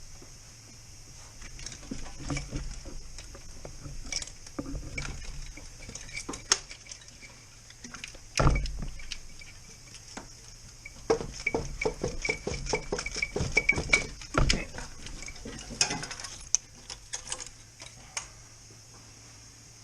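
Metal tools clinking and clattering against metal parts in an irregular string of sharp clicks, with two heavier thuds about eight and fourteen seconds in.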